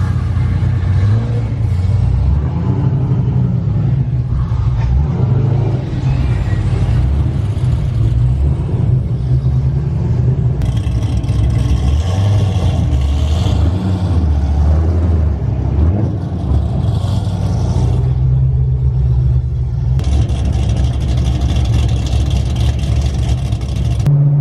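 Loud vehicle engines running and revving, with a heavy low note that rises and falls, changing abruptly a few times.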